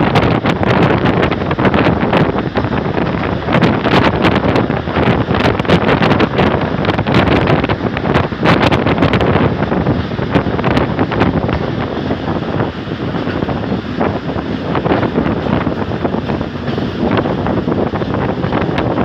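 Running noise of a moving passenger train heard from an open door or window of a coach: a steady rumble with many sharp clicks and knocks from the running gear, thickest in the first half. Wind buffets the microphone throughout.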